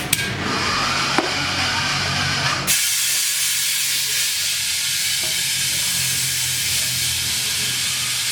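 Compressed air hissing loudly and steadily from a tyre-shop air line. It starts abruptly about three seconds in, after a low machine hum and two sharp clicks.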